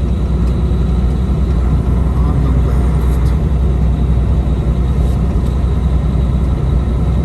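Semi truck running at road speed: a steady low rumble of engine and road noise.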